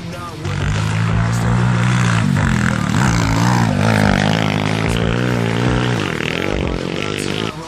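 A 140cc single-cylinder pit bike engine running hard, its pitch wavering up and down through the middle as the throttle is worked, then falling away near the end.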